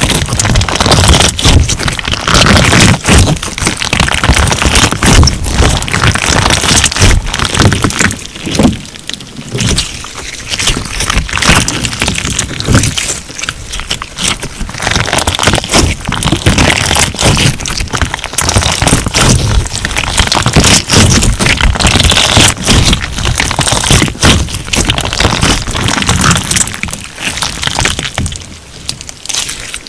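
Crunch slime being squeezed and kneaded by hand: a dense, continuous crackling of many small pops and clicks that swells and eases every few seconds.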